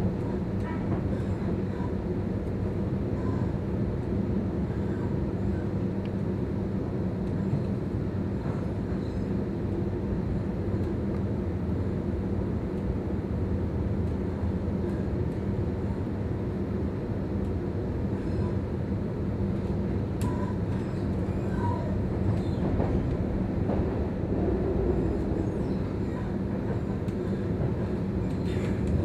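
Sydney suburban electric passenger train running: a steady low rumble with a hum and scattered faint clicks.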